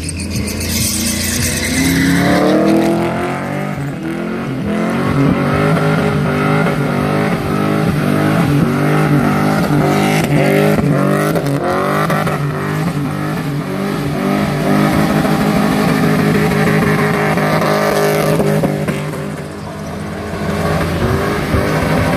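A Holden ute's LS V8 is held at high revs through a burnout, the rear tyres spinning in thick smoke. The revs climb about two seconds in, waver up and down rhythmically for a long stretch, dip briefly near the end and climb again.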